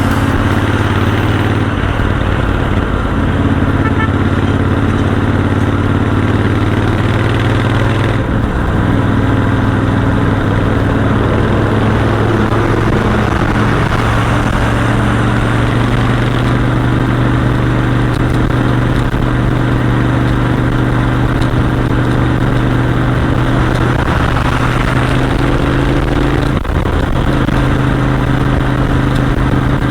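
Royal Enfield Continental GT 650's parallel-twin engine and exhaust running steadily while cruising at highway speed, with a brief break in the engine note about eight seconds in.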